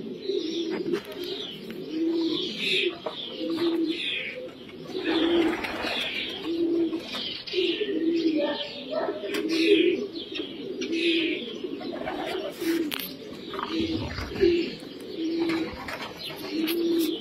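A flock of pouter pigeons cooing, low coos overlapping about once a second, with many short high chirps falling in pitch over them.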